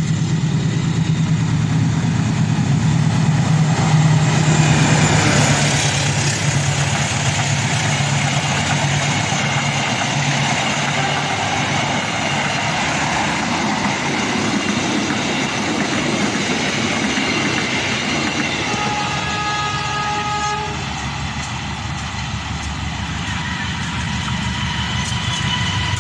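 Diesel-hauled passenger train passing close: the low drone of the locomotive's engine gives way to the steady rumble and clatter of coach wheels on the rails. About 19 s in a train horn sounds a short chord, and near the end another diesel locomotive approaches, its noise growing.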